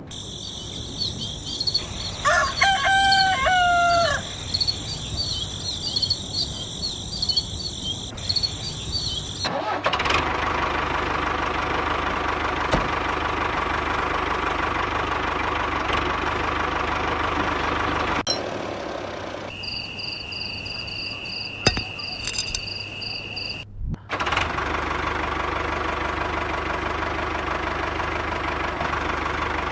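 A rooster crows once against a steady high-pitched drone. After that a small motor runs steadily, with a short break in which steady high tones are heard.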